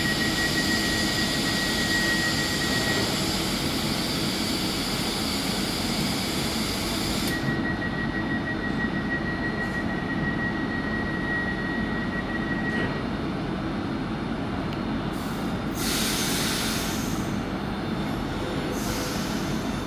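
A train running at a railway station platform, a steady rumble with a thin high whine that fades out after a few seconds and returns for several seconds in the middle. Two short bursts of hiss come near the end.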